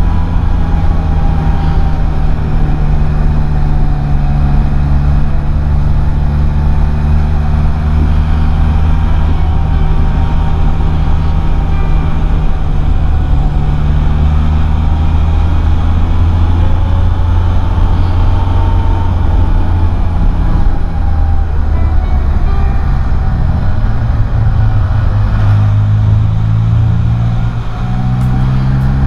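Can-Am Spyder three-wheeler's engine running steadily under way. Near the end the engine note dips briefly and then picks up again, as on a throttle lift or gear change.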